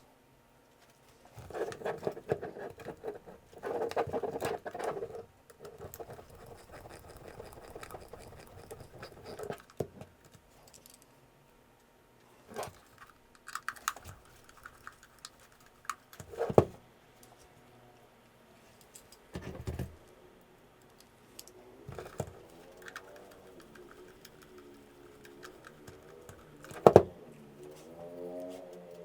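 Small plastic and metal parts of a Sony HVR-DR60 recorder being handled and fitted back together: scattered light clicks, taps and rustling, with one sharp click near the end.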